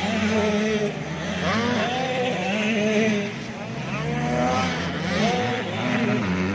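85cc two-stroke motocross bikes revving hard, the engine pitch climbing and dropping again and again as riders accelerate, shift and back off around the track.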